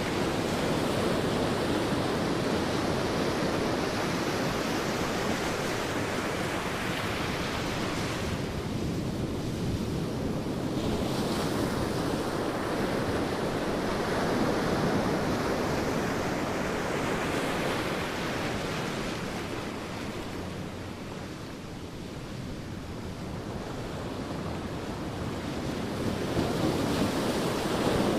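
Sea waves breaking and washing on a beach, a continuous surf that swells and ebbs in slow waves, easing off twice before building again near the end.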